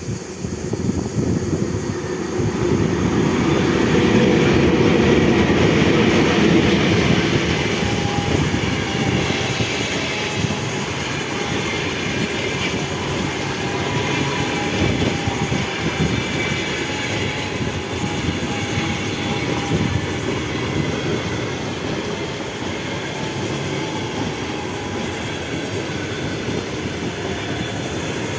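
A train rolling past on the rails, loudest a few seconds in and then running on steadily, with a faint thin squeal from the wheels partway through.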